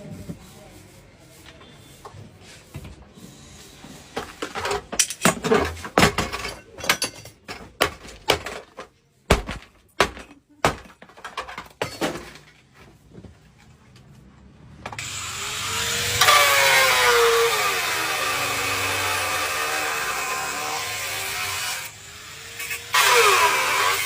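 Irregular knocks and taps of work on metal parts, then from about fifteen seconds in a power tool running steadily, its pitch wavering, with a short drop near the end.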